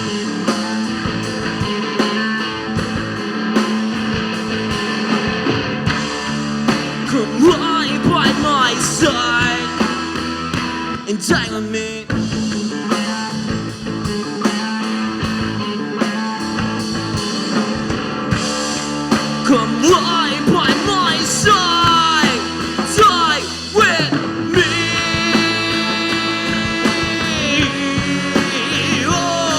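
Live rock band playing an instrumental passage with guitar, bass and drums, a lead line of bending, sliding notes rising over the steady band.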